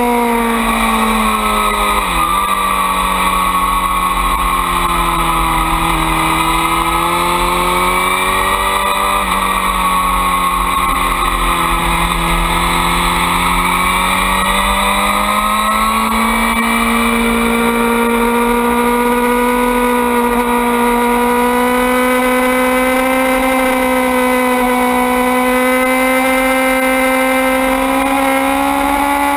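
Suzuki GSX-R600 inline-four race engine heard on board at race pace: the engine note drops sharply about two seconds in, stays lower through a long stretch, then climbs and holds steady and higher for the rest.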